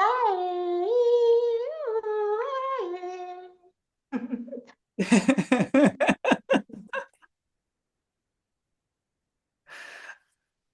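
A voice singing wordless light language: held notes that slide up and down for about three and a half seconds, then a quick run of rapid, choppy syllables, and a short breath near the end.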